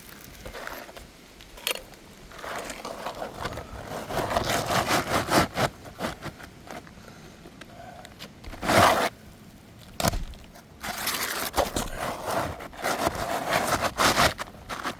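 Pry bar scraping and prying under asphalt roof shingles to work old staples loose: irregular scrapes and sharp clicks, with one louder scrape a little past halfway.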